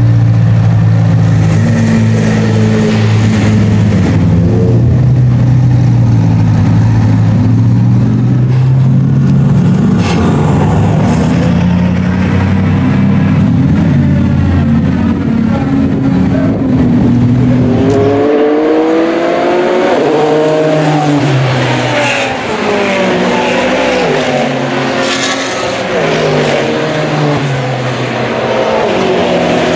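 Race car engines. For most of the first half one engine runs steadily at a constant pitch. From a little past halfway the engine note climbs in repeated rising sweeps, each one dropping back, as the cars accelerate hard through the gears.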